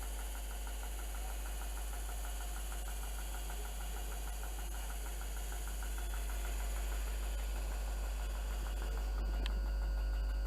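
Train engine idling steadily, with a deep hum and a fast regular ticking of about five beats a second. A short click comes near the end.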